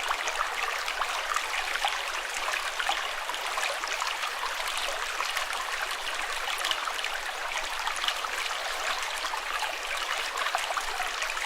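Running water, a stream flowing steadily, with a fine patter of small splashes.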